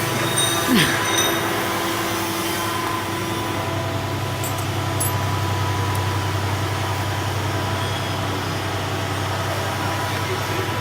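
Large industrial machinery running with a steady hum, with a brief falling squeal about a second in.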